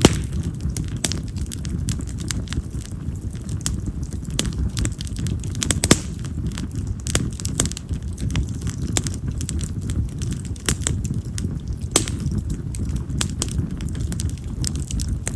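Wild cherry (yamazakura) firewood burning in an open fire: a steady low rush of flame under frequent sharp crackles and pops, the loudest pops near the start and about six and twelve seconds in.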